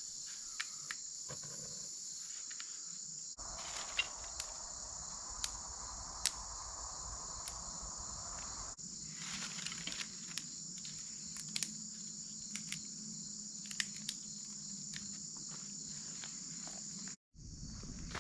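A steady, high-pitched chorus of insects chirring, with scattered small clicks and snaps over it. The background changes abruptly a few times.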